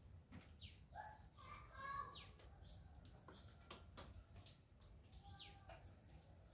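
Faint birds chirping. A short call that sweeps down in pitch comes three times, with a few other brief chirps around it.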